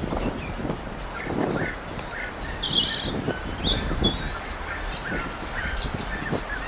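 Birds chirping in short, scattered calls, with a brief high trill about a third of the way in, over a steady low rumble.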